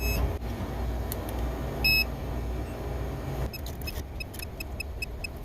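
Electronic beeps from a refrigeration service instrument: a single short high beep at the start, another about two seconds in, then a quick run of rapid beeps near the end, over a steady low hum.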